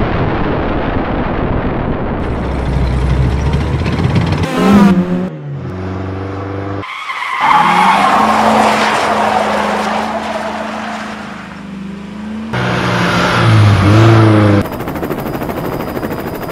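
Dubbed motor-vehicle sound effects: an engine revving up in pitch several times, a steady engine drone through the middle, and a rushing noise like tyres skidding at the start.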